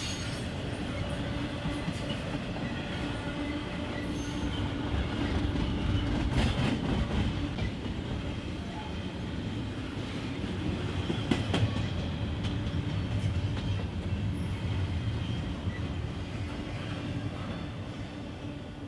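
Freight train cars rolling past on the rails, with steady wheel rumble, occasional clacks over rail joints and faint wheel squeal. The sound fades near the end as the train moves away.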